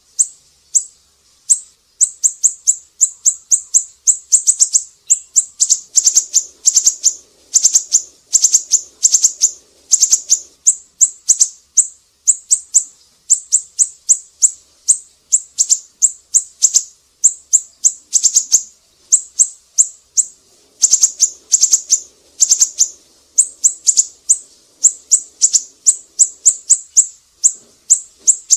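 Siri-siri bird singing: a fast, continuous series of sharp, high chirps, several a second, in runs separated by short breaks.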